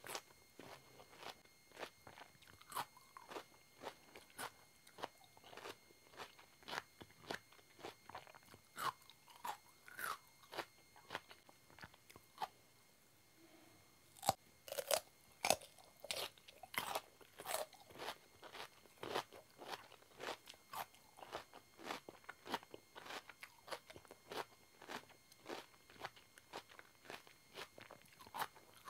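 Raw cucumber being bitten and chewed: a steady run of crisp, wet crunches. A short lull comes a little before halfway, then a fresh bite and a burst of louder crunching, easing back into steady chewing.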